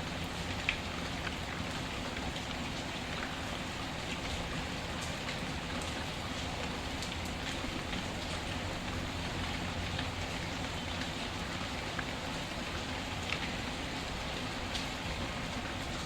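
Steady rain falling, with a wood fire crackling: scattered sharp pops over the even hiss.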